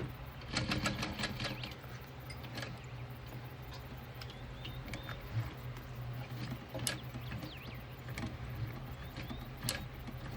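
Industrial walking-foot sewing machine (Juki DU-1181N) running a short burst of stitches about half a second in, followed by a few scattered clicks, over a steady low hum. Faint bird chirps can be heard as well.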